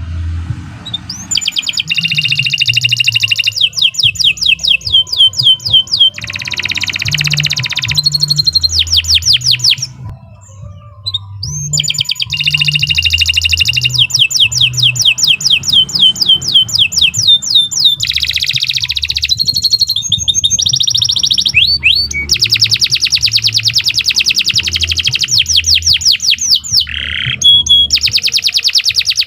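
Domestic canary singing a long song of fast trills, each a rapid run of repeated notes. The song pauses briefly about ten seconds in and again near the end.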